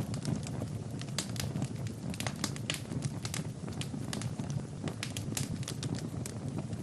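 Wood fire burning in a fireplace: frequent irregular sharp crackles and pops over a steady low rumble of flame.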